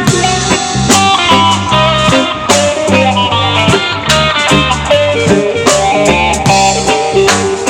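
Live band playing an instrumental passage: a melodic guitar line over bass and a drum kit keeping a steady beat.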